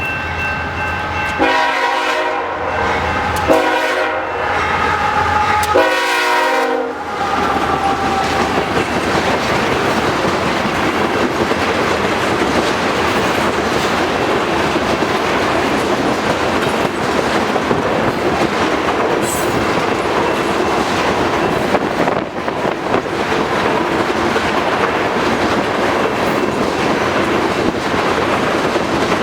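Freight locomotive horn sounding three blasts, two long and one short, then the steady rumble and clatter of a long crude oil train rolling past.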